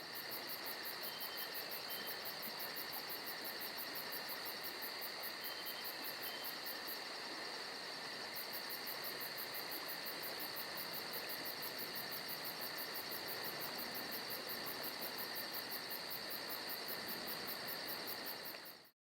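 Insects chirping: a steady high buzz with a rapid, even pulsing chirp above it that stops for a second or so midway, then resumes.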